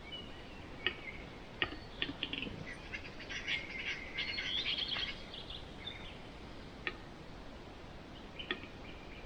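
Western capercaillie display song: a series of dry knocking clicks that speed up, then a scratchy high-pitched grinding phrase lasting about two seconds, then more scattered clicks.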